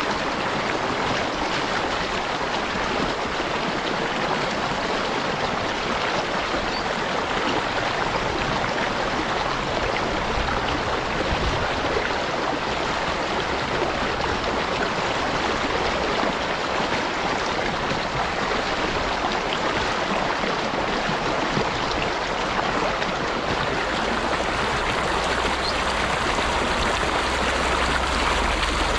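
Steady rushing and babbling of a flowing stream, even and unbroken, with a little more low rumble in the last few seconds.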